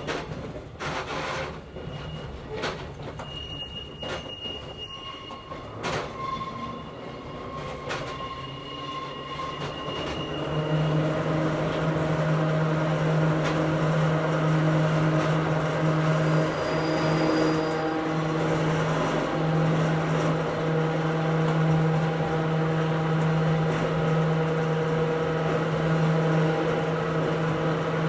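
Hakone Tozan Railway Moha 1 electric car heard from inside, its wheels clicking over rail joints and squealing thinly on the curves. About ten seconds in, the nose-suspended traction motors and gearing take up a louder, steady low hum with overtones that holds at one pitch.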